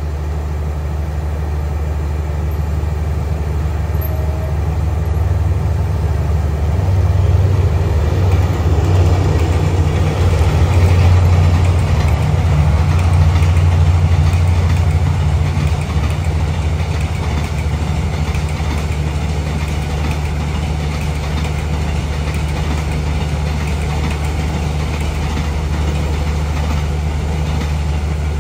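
Diesel locomotive engine running with a steady low hum as a passenger train rolls by. A rumble of train wheels on the rails builds about a quarter of the way in, peaks near the middle and eases off.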